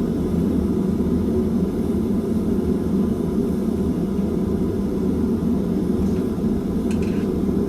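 A forge running with a steady low rushing noise while the steel heats, with no hammer blows.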